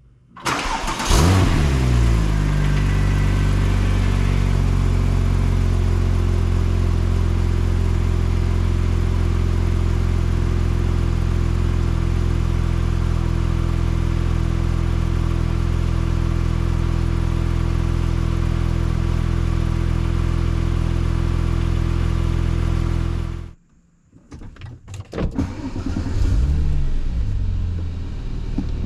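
2007 Porsche 911 Turbo's twin-turbo 3.6-litre flat-six cold-starting: a short crank, the revs flare and fall back, and it settles into a steady idle. Near the end the sound cuts out abruptly, then the engine starts again with another brief flare before idling.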